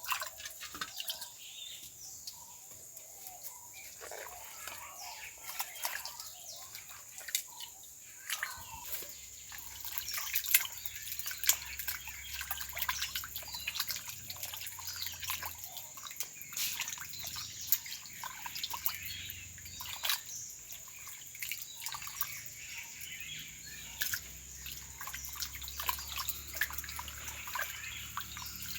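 Water dripping and splashing, with many small clicks and taps of handling, under a steady high-pitched tone; a low hum comes in about a third of the way through.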